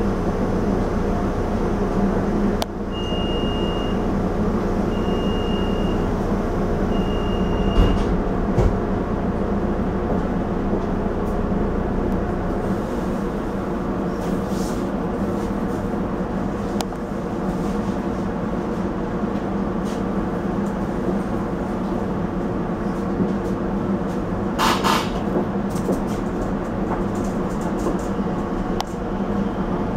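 Interior hum of a Rotem Silverliner V electric commuter railcar standing at a station platform, with its onboard equipment running steadily. Three short high beeps sound a few seconds in, followed by a knock.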